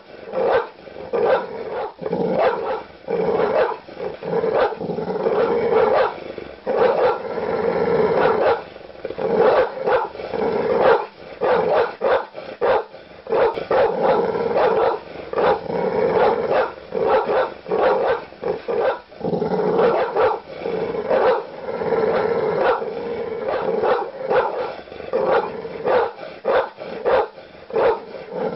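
Large dogs barking aggressively: deep barks following one another rapidly and overlapping, without a break.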